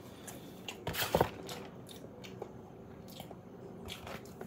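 Someone chewing a mouthful of pepperoni pizza close to the microphone: soft wet mouth clicks and smacks, with a louder cluster about a second in.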